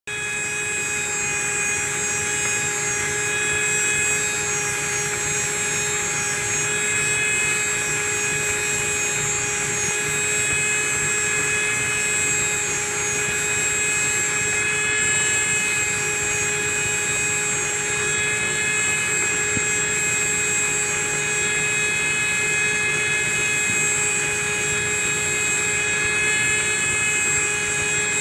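Grinding on a lathe: a tractor transmission coupler is being ground, with a steady high whine of the running grinder over an even hiss of abrasive against metal, unchanging throughout.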